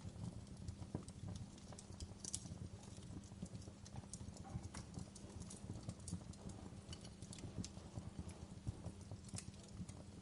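Wood fire crackling in a fireplace: irregular pops and snaps from the burning logs, several a second, over a steady low rumble of the flames.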